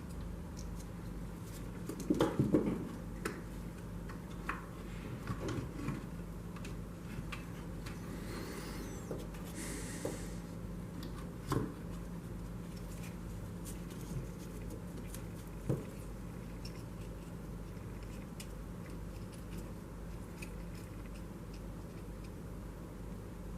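Light clicks, taps and knocks of small parts and tools being handled, a quick cluster about two seconds in and single ones now and then, over a steady low hum.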